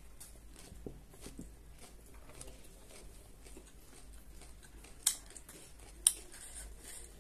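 Close-up chewing of a mouthful of mimi singju, a crunchy salad of crushed dry instant noodles and shredded cabbage, with soft crunching throughout. Two sharp clicks stand out, about five and six seconds in.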